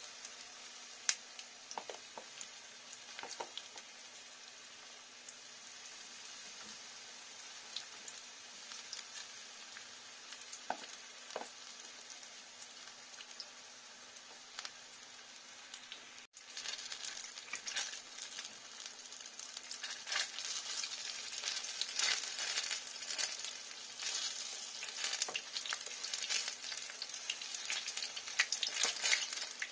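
Battered banana fritters sizzling in shallow oil in a frying pan, with a few light clicks of utensils. About halfway through, the frying gets louder and crackles more busily.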